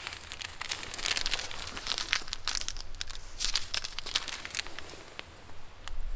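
Crinkling and rustling, a dense run of small irregular crackles that thins out near the end.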